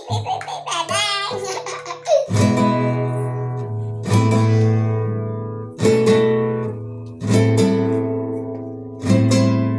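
Acoustic guitar playing a medley: after a brief wavering melody, full chords are strummed about every one and a half to two seconds, each left to ring out and fade.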